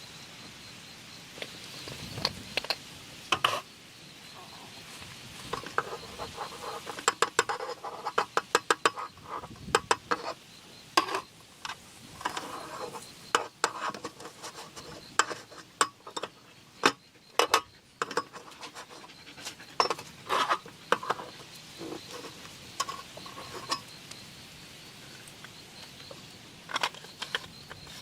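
Hard objects, like camp cookware and metal utensils, clinking and clattering irregularly as they are handled, in clusters of quick knocks and taps.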